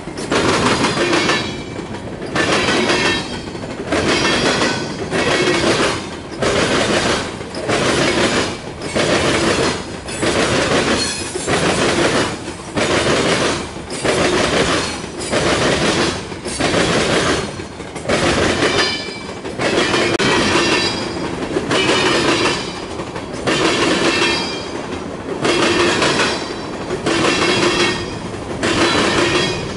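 Freight train of covered hopper cars rolling past at speed, the wheels clacking over rail joints in a steady rhythm of about one heavy beat a second. High wheel squeal comes and goes over it.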